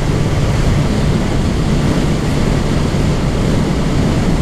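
Motorcycle riding at a steady speed: the engine's low, even drone under a constant rush of wind noise on the rider's microphone.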